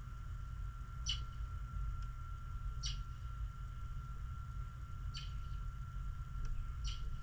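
A small bird chirping: four short, high chirps spaced about two seconds apart, over a steady low rumble and a faint steady high tone.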